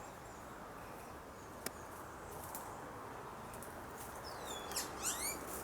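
Outdoor garden ambience with a faint steady insect-like hiss, a single sharp click a little under two seconds in, and near the end a brief bird call: a falling high whistle followed by a quick run of high chirping sweeps.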